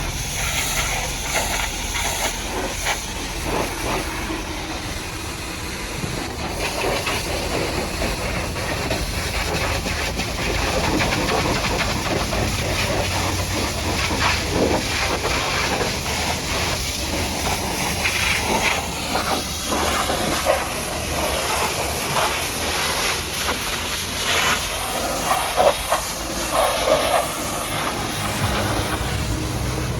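Pressure washer spraying a steady high-pressure jet of water, a continuous hiss with scattered splashes and knocks.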